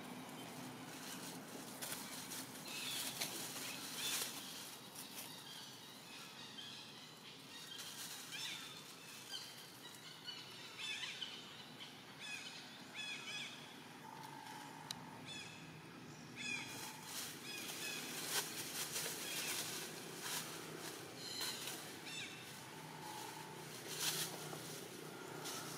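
Outdoor ambience of small birds chirping over and over in short calls, with scattered clicks and rustles throughout.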